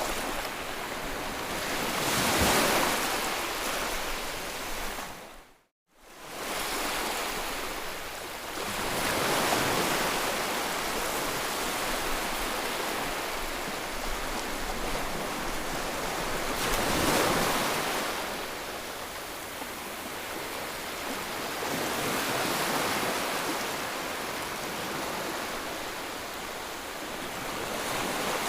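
A soothing white-noise track: a full rushing hiss that swells and ebbs every six to eight seconds like surf. About six seconds in it cuts out briefly, as at a loop join, then comes back.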